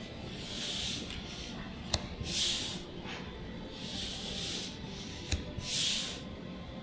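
Magic: The Gathering trading cards being handled one at a time as they are revealed: a small tap or click, then a papery swish of card sliding over card. The pattern repeats about every three and a half seconds.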